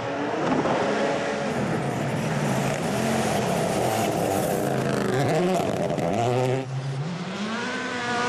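Rally car's turbocharged four-cylinder engine at full effort on a gravel stage, revs rising and falling again and again through gear changes, over loud gravel and road noise. The revs drop briefly about six and a half seconds in, then climb again.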